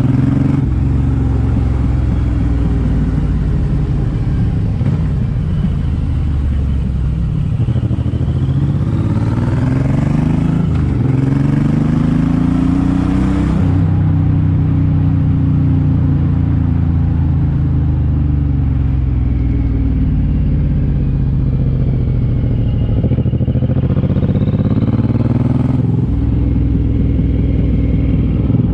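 Suzuki M109R's 1783 cc V-twin running under way through its exhaust. It pulls up through the gears twice, the pitch rising and dropping at each shift, about a third of the way in and again near the end, with steady cruising and easing off in between.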